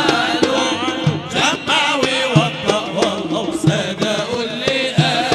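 Arabic wedding zaffa music: voices chanting over frame drums beating a steady rhythm, with a deep stroke about every second and a quarter and lighter strokes between.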